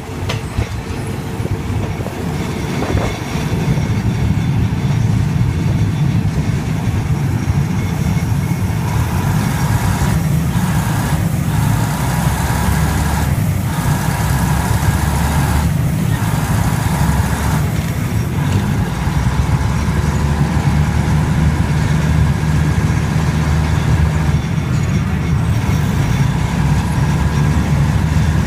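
Passenger train running along the track, heard from an open carriage window: a steady low rumble of the coaches rolling on the rails, growing louder about four seconds in.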